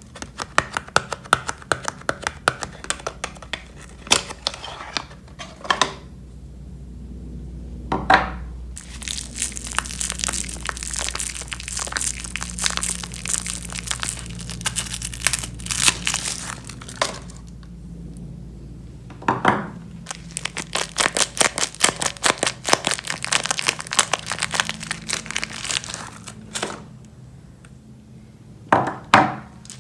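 Soap wrappers being crinkled and torn open by hand: runs of dense crinkling and crackling with tearing sounds, broken by a few short quieter pauses.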